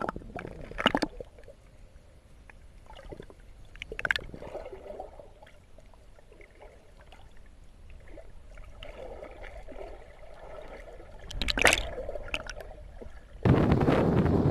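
Muffled underwater gurgling and sloshing heard through a submerged GoPro, with a few sharper splashy swishes. Near the end a loud, steady rush of wind noise cuts in suddenly.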